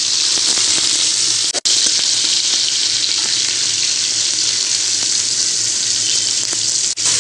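Tomato pieces and green chillies sizzling steadily in hot mustard oil in an iron kadai, a dense even hiss with two brief gaps.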